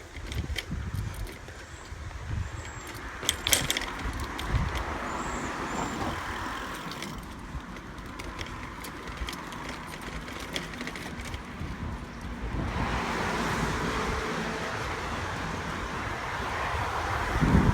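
Riding a bicycle: tyre rumble and wind on the microphone, with scattered clicks and rattles. A steadier, louder hiss sets in about two-thirds of the way through.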